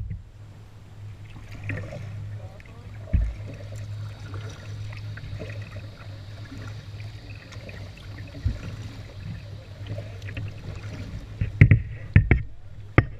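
Kayak paddling through flood water: the paddle dips and drips, with small knocks on the hull and a few louder knocks close together near the end, over a steady low hum.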